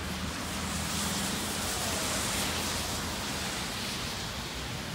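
Rain on a flooded, water-covered street: a steady hiss that swells about a second in and eases toward the end, with a faint low hum underneath.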